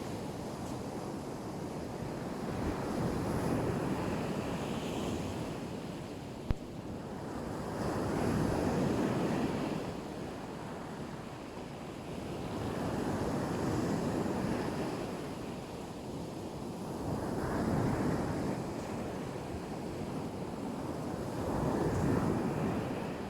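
Black Sea waves breaking and washing onto the shore, the surf swelling and falling away about every four to five seconds. A single sharp click sounds about six and a half seconds in.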